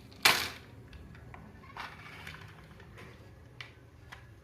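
Plastic toy vehicles being handled: a short scraping rustle just after the start, then a few faint light clicks and taps.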